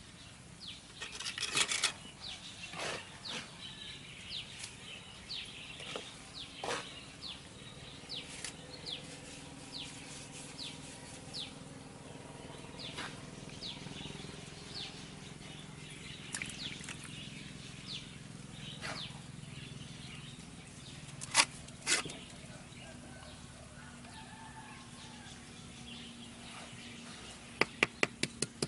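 A bird calling with short, falling chirps, repeated every second or so. Scattered taps and knocks come through, with two louder clicks past the middle and a quick run of sharp taps near the end.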